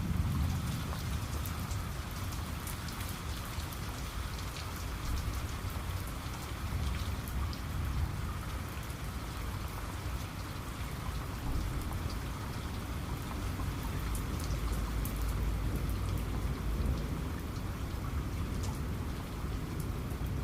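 Steady rainfall, with individual drops landing as sharp ticks scattered through it and a deep low rumble underneath.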